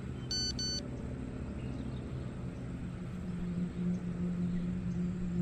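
Steady low rumbling ambience with two short, high pitched beeps about half a second in, and a low hum that swells from about three seconds in.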